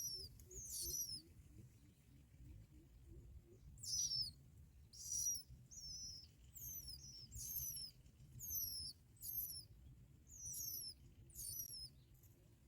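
Bar-winged prinia calls: about a dozen short, high-pitched, downward-slurred notes in an irregular series, some coming in quick pairs.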